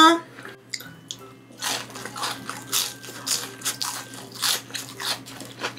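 Crunchy bites and chewing of a battered, deep-fried squid strip, about two crunches a second.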